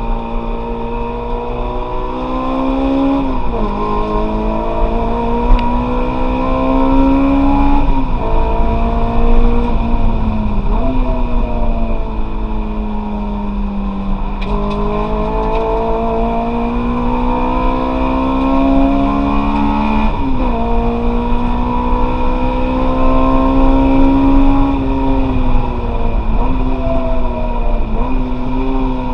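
Honda S2000's inline-four engine heard from inside the cabin while driven hard. Its revs climb through the gears and drop sharply at each gear change, about five times, with easing-off and rising again in between.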